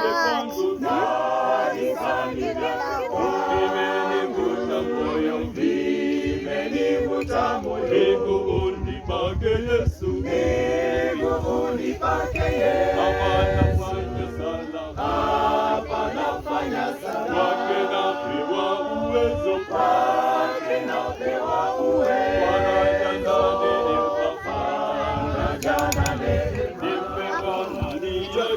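A choir of voices singing a cappella, holding notes and moving between them in a steady sung line, as in a worship song.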